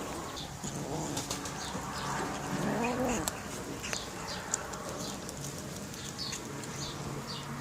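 Domestic cats growling and yowling over their food, with one drawn-out call that rises and falls about three seconds in.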